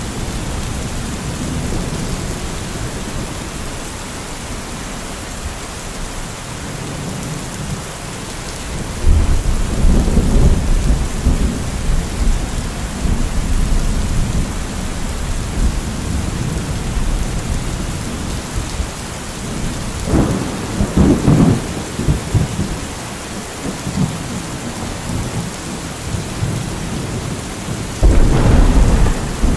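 Steady rain falling, with deep rolls of thunder coming in three times: about a third of the way in, two-thirds of the way in and again near the end.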